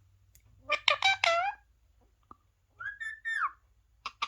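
A parrot vocalising: a short speech-like mimicked call about a second in, then a brief whistle that bends down at the end near three seconds.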